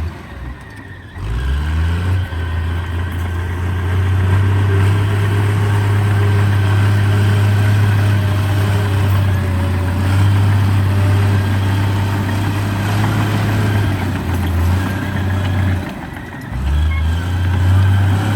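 Heavy diesel engine of earthmoving machinery running under load. It drops off and revs back up about a second in, and again near the end.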